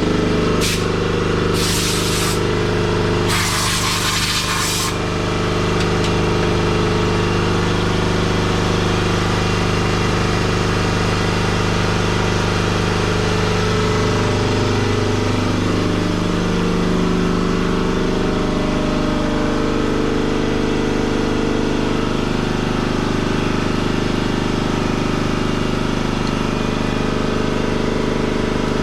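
A machine's motor running steadily with a low hum, with three short bursts of air hiss in the first five seconds; its pitch shifts slightly partway through.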